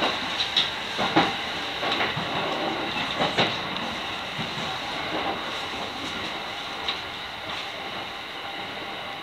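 Electric commuter train running over the tracks, heard from inside the front car: a steady running hiss with sharp wheel clicks over rail joints and points, several in the first few seconds and a couple later, fading slightly toward the end.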